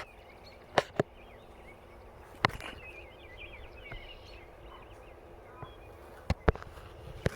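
Outdoor birds chirping in a short burst of quick high notes, between several sharp knocks, a pair about a second in, one near two and a half seconds, and a pair with a single after near the end.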